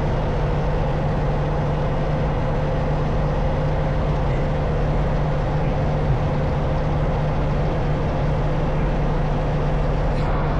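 Semi-truck's diesel engine running steadily at low revs.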